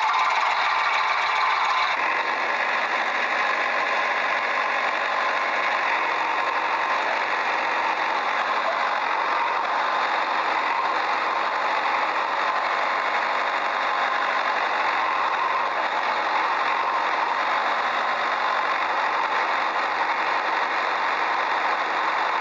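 Steady engine-like running sound, idling evenly with a slight change about two seconds in.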